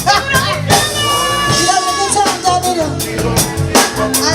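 Live band music with drum kit, bass and a held, sung melody line over a steady beat.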